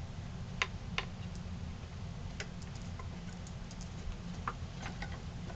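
Light, irregularly spaced clicks and taps from handling the wooden ventriloquist figure, a pair about half a second in and a cluster near the end, over a low steady hum.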